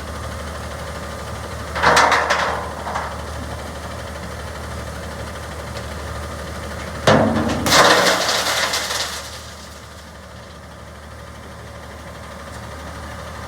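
Garbage truck engine running steadily, with two loud bursts of noise: a short one about two seconds in and a longer one starting sharply about seven seconds in and lasting about two seconds. The engine is quieter after about ten seconds.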